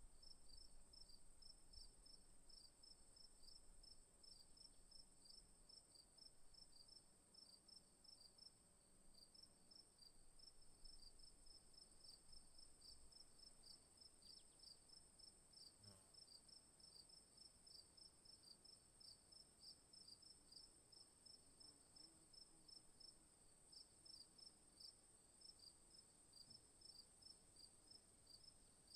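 Faint chorus of night insects in the bush: a continuous high-pitched buzz with crickets chirping rapidly and evenly underneath.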